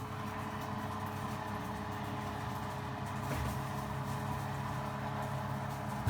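Kitchen appliance fan motor humming steadily, a constant drone with no change in pitch.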